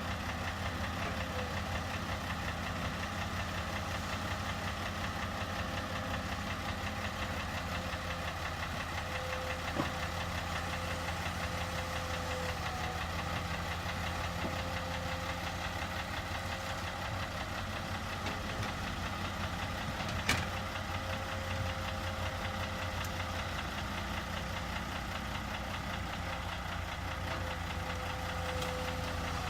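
Diesel engine of heavy earthmoving machinery, an excavator or dump truck, running steadily with a constant high tone over it. A short sharp knock about ten seconds in and another about twenty seconds in.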